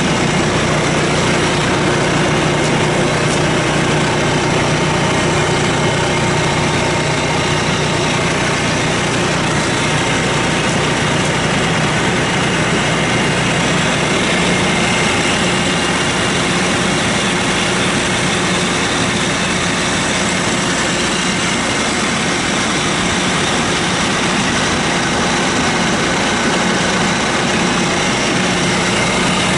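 Diesel engine of a John Deere 5115ML tractor idling steadily, with an even hum that holds the same pitch and level throughout.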